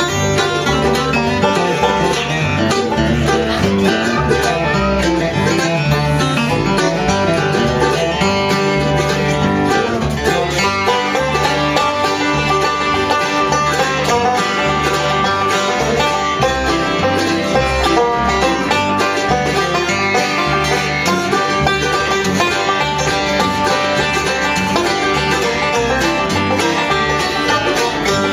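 Bluegrass band playing an instrumental passage, led by banjo and guitar.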